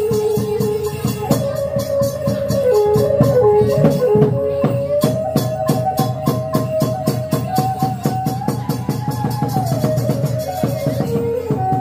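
Khmer chhay-yam folk music: a held melody line that steps up and down in pitch, played over fast, even percussion beats.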